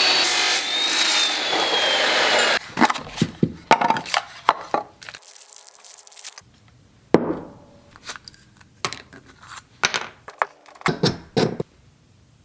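A power tool running loudly on the 3/4 inch square tubing, its whine falling in pitch before it stops about two and a half seconds in. A string of sharp clacks and knocks of metal being handled follows.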